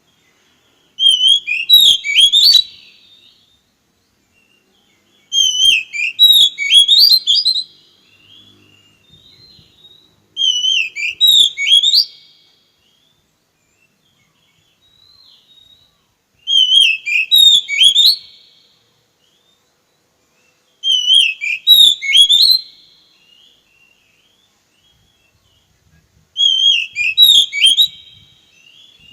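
Oriental magpie-robin (kacer) singing loud whistled phrases, six short bursts of song about five seconds apart with pauses between.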